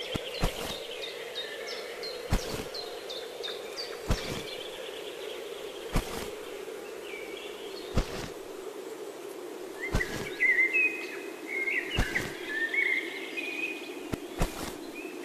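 Outdoor nature ambience: small birds chirping and trilling over a steady low hum, with a sharp click about every two seconds.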